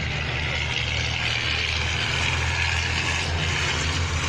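Race truck diesel engine running steadily under a constant hiss, with no rise or fall in level.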